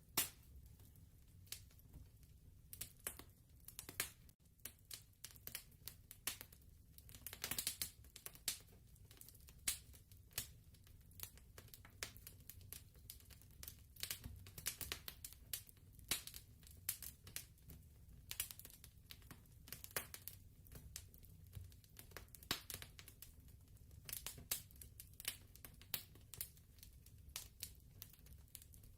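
Fireplace fire crackling, with irregular sharp pops and snaps over a low, steady rumble.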